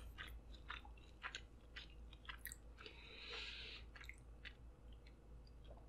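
Faint close-miked chewing of sushi, heard as scattered soft mouth clicks, with a brief hiss about three seconds in.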